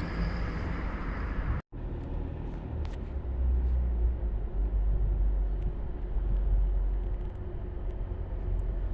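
Diesel multiple-unit train pulling out of the station, a steady low engine rumble. The sound drops out completely for a moment at about two seconds in, then the rumble carries on.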